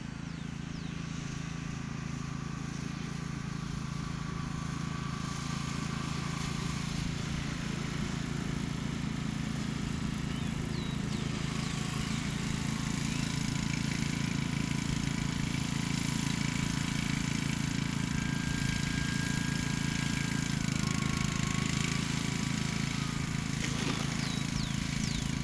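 Strong wind rumbling and buffeting on the microphone, growing slightly louder, with a faint high whine that wavers in pitch now and then.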